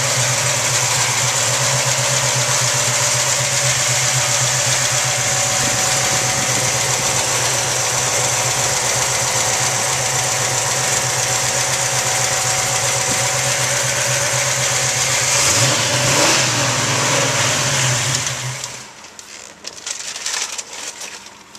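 1971 Plymouth Road Runner's 440 V8 idling steadily, with a brief rise in revs about 16 seconds in. The engine stops about 19 seconds in, and after that only a few small clicks and knocks are heard.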